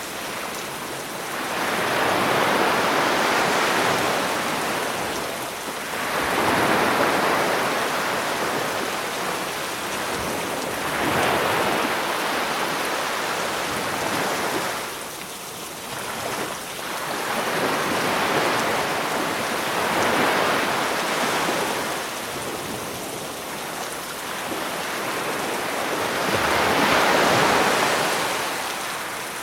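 Sea waves breaking and washing up the beach, swelling every few seconds, over a steady hiss of rain.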